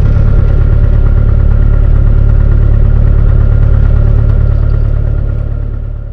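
Steady, loud engine drone heard from inside the cabin of a small aircraft, fading out near the end.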